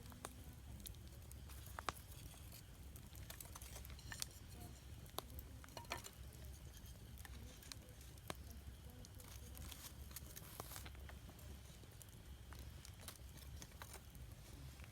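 Wood campfire crackling with irregular small pops and a few louder snaps, over a low steady rumble.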